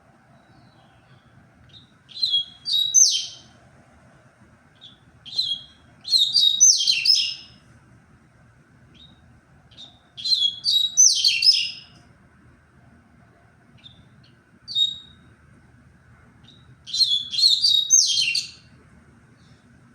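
Double-collared seedeater (coleiro) singing its tui-tui song: four bursts of rapid, high, sharply pitched notes, each lasting one to two seconds and coming about every four seconds, with single short chirps between them.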